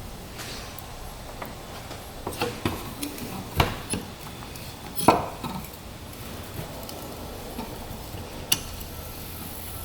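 Scattered metal clinks and knocks of tools and small engine parts being handled while a cylinder head is stripped, about five separate strikes, the loudest about five seconds in with a short ring after it.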